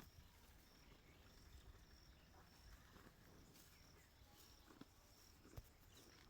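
Near silence, with a faint high chirp repeating about twice a second, as from an insect.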